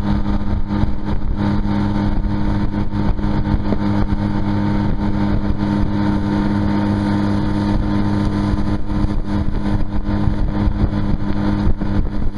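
Tohatsu four-stroke outboard motor running at a steady speed, pushing the boat along, with an even, unchanging hum.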